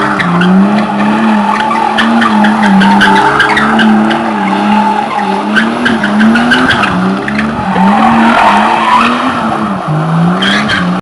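Toyota Supra MKIV twin-turbo inline-six, driven hard, its engine pitch rising and falling over and over, about once a second.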